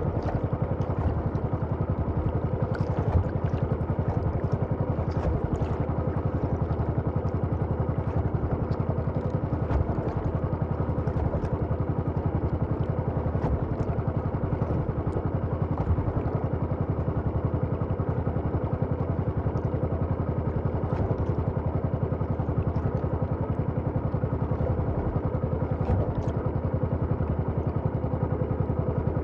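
A small engine running steadily at a constant speed, with a fast, even firing pulse.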